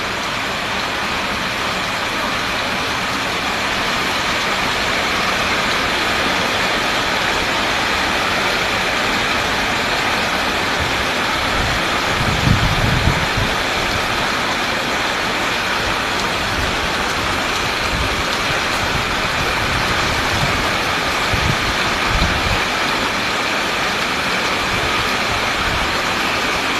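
Heavy rain falling steadily in an even hiss, with a brief low rumble about halfway through and a smaller one later.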